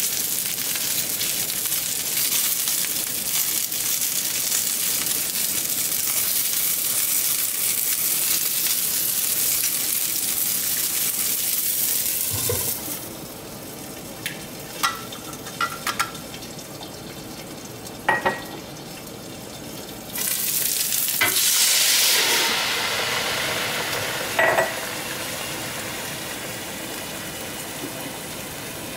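Dumplings frying in oil in a nonstick pan, a steady sizzle. About halfway the sizzle drops away and a few light clicks are heard; a loud sizzling hiss rises about two-thirds of the way in and fades slowly under the glass lid.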